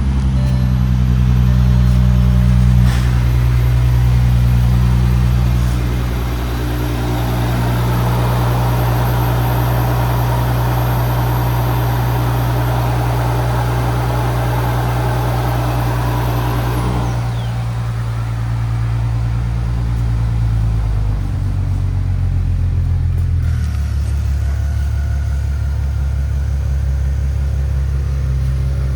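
Bentley Continental GT's 6.0-litre twin-turbo W12 engine running steadily at idle. A rushing hiss over it cuts off about seventeen seconds in, and the engine's low note shifts a few seconds later.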